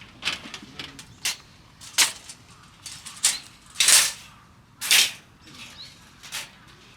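Burning firewood crackling and popping, with a scatter of small clicks and several loud sharp pops, the biggest about two, four and five seconds in.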